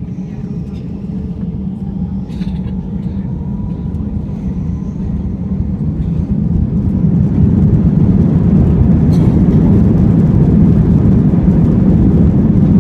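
Airbus A320 jet engines spooling up for takeoff, a deep rumble with a faint rising whine that grows louder about halfway through and then holds steady at takeoff power.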